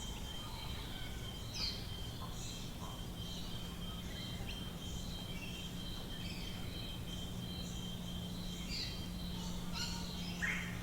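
Several small birds chirping and calling in short notes, with a couple of louder calls near the start and near the end. Under them runs a steady thin high tone and a faint low hum.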